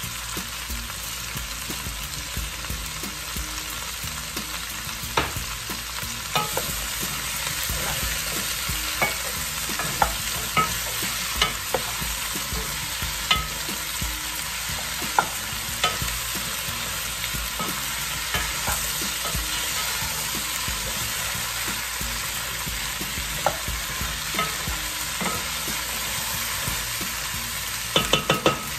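Potato and squash chunks sizzling with a steady hiss in a nonstick pot on high heat while a wooden spoon stirs them, knocking against the pot now and then. Near the end comes a quick run of knocks as the spoon is lifted and tapped.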